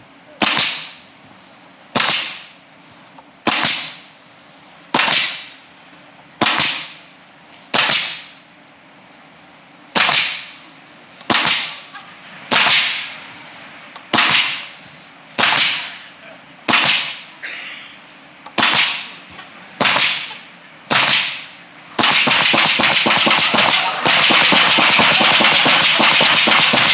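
Pneumatic nail gun firing about fifteen single shots, one every second or so, each a sharp crack with a short decaying tail; on some shots it drives a nail into the board, on others it hits an empty gap in the nail strip and fires only air. Applause breaks out about 22 seconds in.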